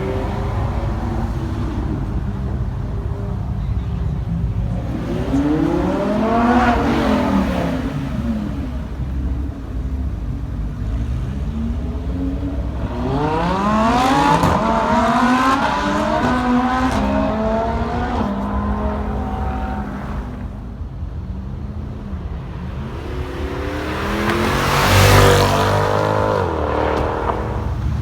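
Supercar engines idling with a steady low rumble while cars accelerate hard away, each engine note climbing steeply as it revs up. One rises and falls about six seconds in, another climbs through several rising notes around the middle, and the loudest one rushes past near the end.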